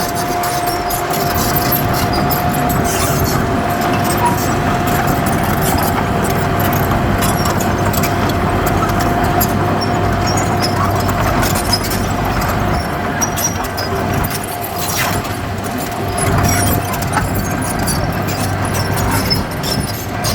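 Heavy diesel earthmoving machinery running steadily, with a steady high-pitched whine over the engine that fades out near the end and scattered clicks and clanks.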